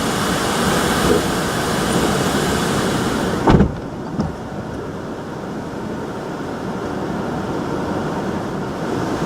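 Hurricane-force wind blowing hard and unbroken, with a sudden loud thud about a third of the way in, after which the high hiss eases.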